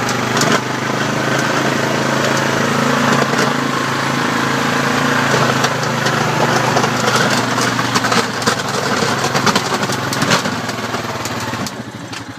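ATV engine running steadily while plowing snow, with a dense noisy haze over the hum; it fades near the end.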